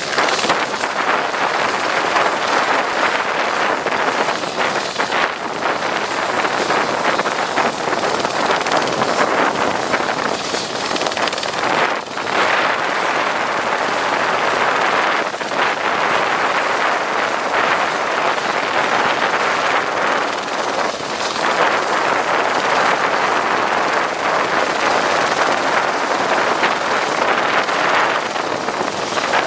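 Airbus AS355 Ecureuil 2 twin-turbine helicopter running loud and close at takeoff, a steady rush of rotor and engine noise. A thin, high turbine whine over it creeps up in pitch from about halfway through.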